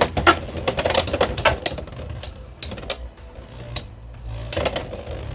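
Two Beyblade X spinning tops, Hells Scythe and Knight Shield, clashing in a plastic stadium: a rapid run of sharp plastic clacks, dense for the first two seconds, then scattered hits with a short flurry near the end.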